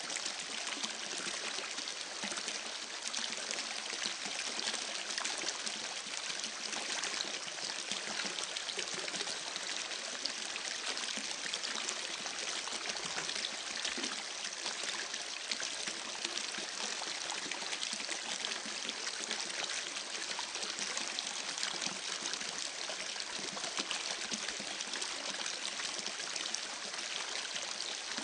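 Steady running water, an even, unbroken rush of splashing with no change in level.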